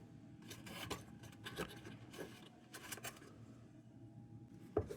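Wire bail of a rusty lantern being worked out of its pivot holes: faint, irregular metal scrapes and small clicks, with a sharper click near the end.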